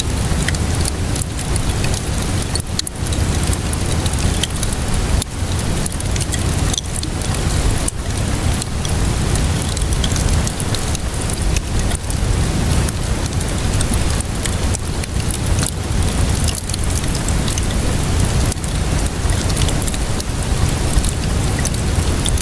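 Steady rainfall mixed with a crackling wood fire: a dense, even hiss scattered with frequent sharp pops and crackles over a constant low rumble.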